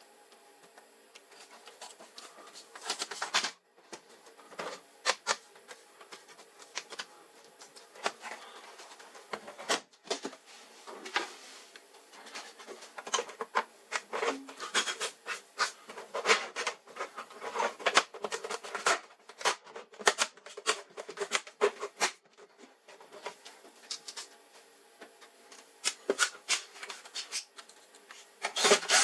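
Irregular clicking, tapping and scraping of hands working a monitor's parts and tools, with a faint steady hum underneath.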